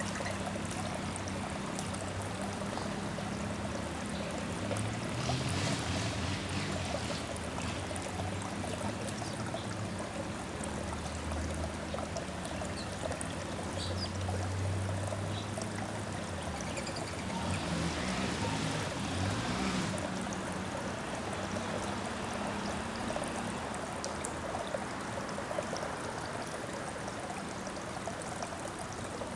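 Steady trickling, running water, with a low rumble that swells twice and fades.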